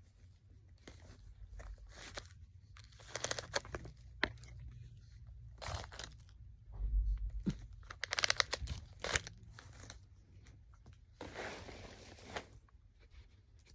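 Packaging rustling and crinkling as it is handled, in irregular short bursts, with a longer stretch of crinkling about eleven seconds in.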